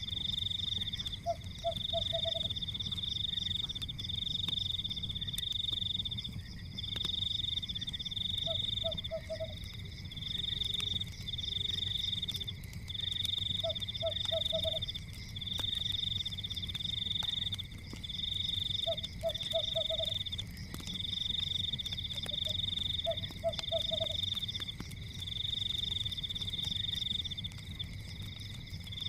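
Frogs calling: a high, fast trill repeats in runs of about a second almost without pause, and a lower croak of about four quick pulses comes roughly every five seconds. Behind them are a steady low rumble and scattered faint crackles from a fire.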